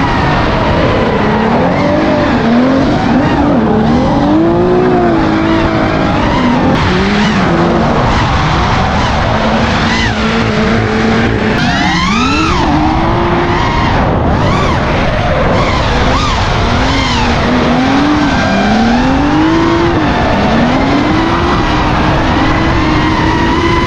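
Cars drifting: engines revving hard, their pitch rising and falling again and again, over continuous tyre squeal.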